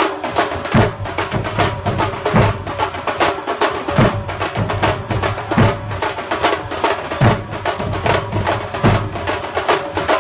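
Thambolam melam percussion band playing: fast, dense drumming with a deep drum stroke about every one and a half seconds, over a steady held note.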